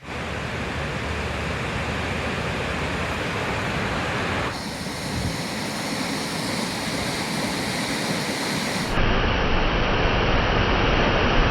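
Waterfall: a steady rush of falling water, its tone changing abruptly twice, about four and a half and nine seconds in, and a little louder after the second change.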